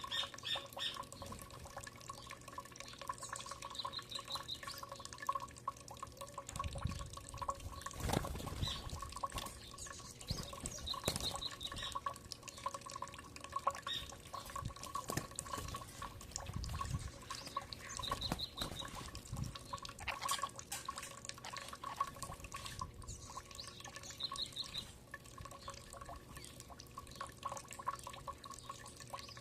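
Birds feeding: a short high trill repeats about every six or seven seconds over many scattered small clicks and taps, with a few soft low thuds and a faint steady tone underneath.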